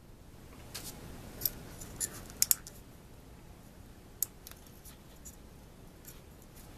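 Half a dozen small, sharp clicks at uneven intervals, two in quick succession about two and a half seconds in, with light handling noise between them.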